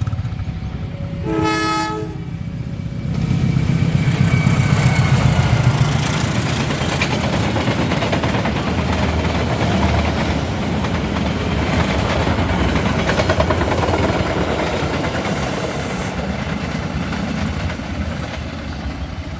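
Passenger train sounding one short horn blast about a second and a half in, then passing close by, its wheels clattering over the rails.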